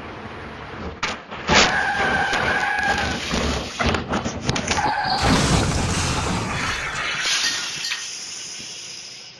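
Vehicle crash: a sharp impact about a second and a half in, then crashing and breaking noise with a steady tone held for over a second. A second loud stretch of crashing noise comes midway and fades out toward the end.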